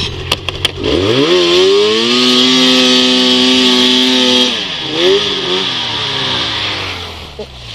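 Snowmobile engine, a supercharged Yamaha Nytro, revving up about a second in and holding a steady pitch for about three seconds. It then drops off the throttle, gives one short blip, and eases back down near the end, with a hiss of track and snow under it.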